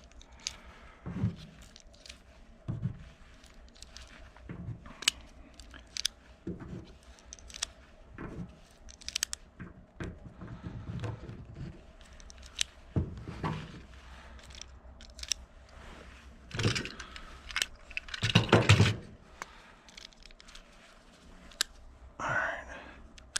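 .22 LR cartridges being handled and pressed one at a time into a Glock 44 magazine: irregular small clicks and scrapes of metal.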